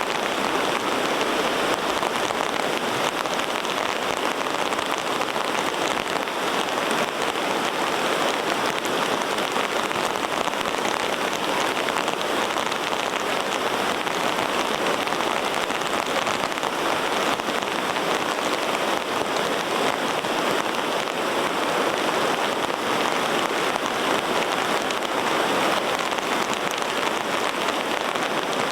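Steady heavy rain falling, an even hiss with no break or change.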